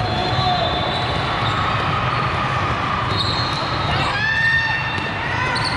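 Balls bouncing and being struck on a hard indoor court, with steady crowd chatter echoing in a large hall and a few short high squeaks about four seconds in.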